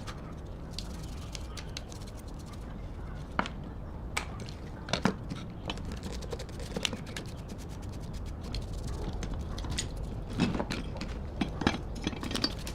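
Scattered metallic clicks and knocks of hand tools working on metal parts, over a steady low hum.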